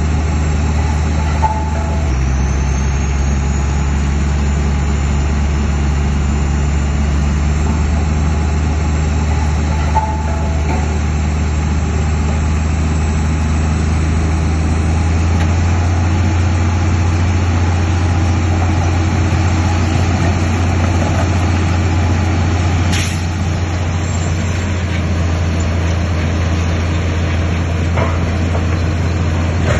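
Heavy diesel engine of earth-moving machinery running steadily under work, a loud continuous low drone. A faint high whine slowly rises in pitch from about two seconds in, and a single sharp click comes near the end.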